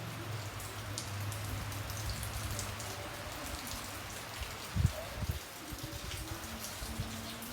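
Rain falling steadily, with individual drops ticking on a surface. A low hum runs through the first few seconds, and a dull thump sounds about five seconds in.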